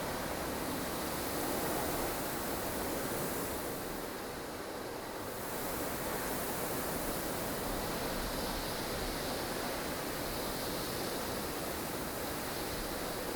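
Strong wind of a blustery snowstorm, a steady rushing noise that eases a little about four seconds in and then builds back.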